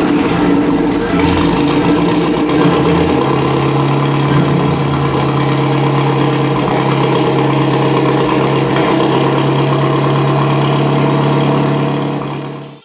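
Vintage Bentley engine running loud and steady. About three seconds in its note drops slightly, then it holds and fades out near the end.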